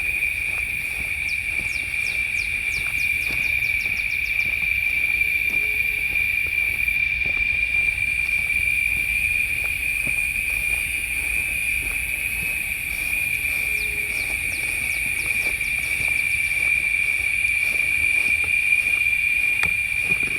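Insects singing outdoors in a steady, unbroken high-pitched drone, with faint quick ticks above it.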